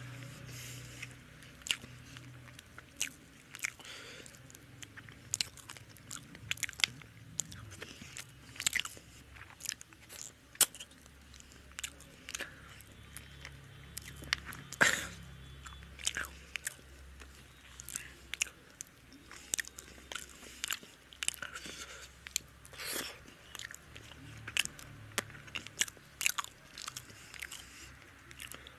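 Close-miked chewing of rice and fish curry eaten by hand, with frequent short, sharp mouth clicks and smacks.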